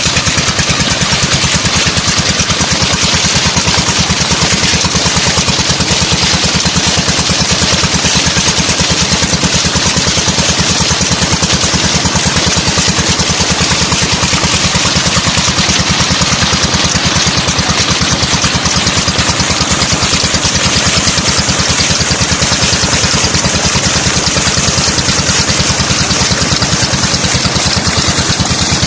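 12 hp Peter single-cylinder diesel engine driving a tube-well pump, running steadily at constant speed with an even, rapid firing beat.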